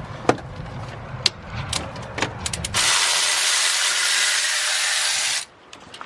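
Hand tools clicking and clattering, ratchet-like, then a loud, steady hiss of escaping air for about two and a half seconds that cuts off suddenly.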